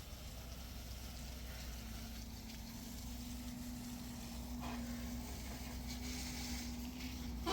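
A vehicle engine running steadily: a low rumble with a faint steady hum.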